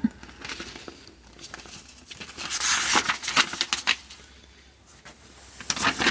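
Paper crinkling and rustling as the pages of a manual are handled and turned, with a louder rustle about three seconds in and a few light clicks.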